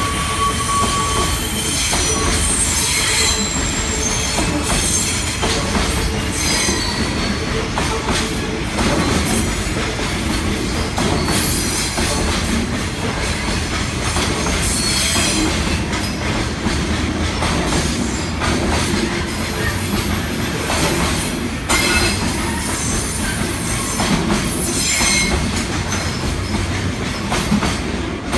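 Freight train rolling past, its wagons' wheels clicking over rail joints, with short high-pitched wheel squeals coming and going.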